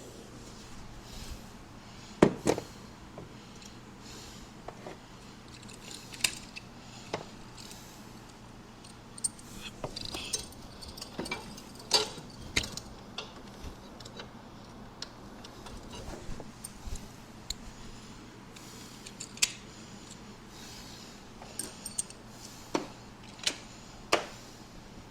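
Irregular metallic clinks, clicks and knocks of hand tools and small parts being handled, with a louder knock about two seconds in and another near the middle.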